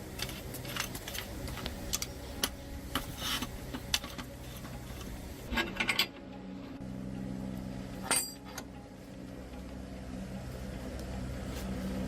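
Scattered metallic clicks and clinks of tools and parts being handled, over a low steady hum, with louder clusters of clinks about halfway through and again a couple of seconds later.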